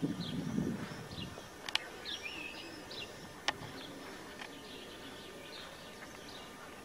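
Small birds chirping and calling, with many short high chirps and a few warbled phrases. A low rumble fades out in the first second or so. Two sharp clicks come about two seconds apart.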